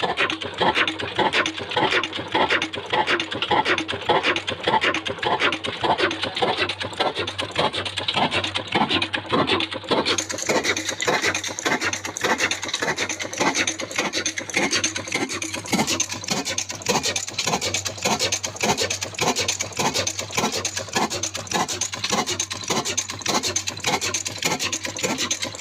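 Old black desi diesel engine, a slow-speed Ruston-type single-cylinder, running steadily under mill work with a fast, even beat of about four strokes a second. The sound turns brighter and hissier about ten seconds in.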